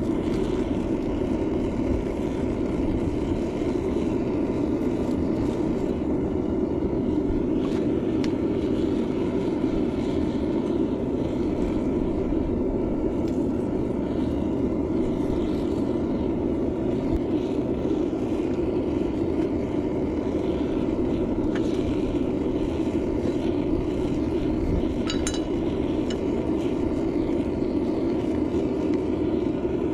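VEVOR metal melting furnace running during an aluminium melt: a steady, even rushing drone with a low rumble underneath. A brief metallic clink comes about 25 seconds in.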